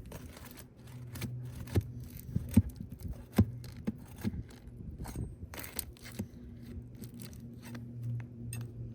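Steel flat bar scraping and prying under asphalt composition shingles to work the roofing nails loose, with irregular sharp metal clicks and taps. A steady low hum runs underneath.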